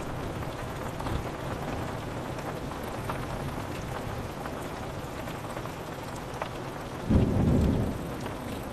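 Steady rain on a window glass, with scattered drops ticking, and a sudden low thunderclap near the end that rumbles for under a second.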